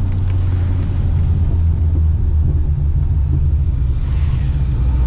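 Supercharged LS3 V8 of a Corvette C6 running steadily without revving, heard from inside the cabin. A hiss joins about four seconds in.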